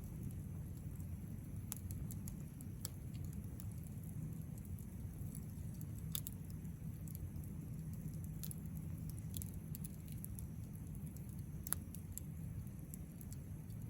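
Wood campfire burning: scattered crackles and pops over a steady low rumble, with one sharper pop near the end.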